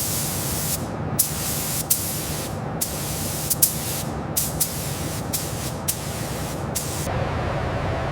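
Compressed air spraying in a series of short hissing bursts, each starting with a click, about ten in all, stopping about seven seconds in.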